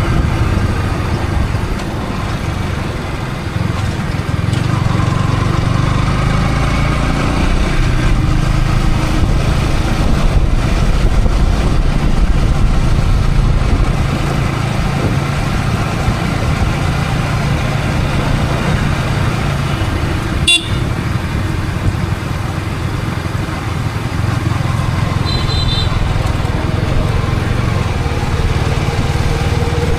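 Yamaha R15 V3's single-cylinder 155 cc engine running on the move, with road and wind noise, heard from a helmet camera. Traffic horns sound, with a short high beep about 25 seconds in, and there is a sharp click about 20 seconds in.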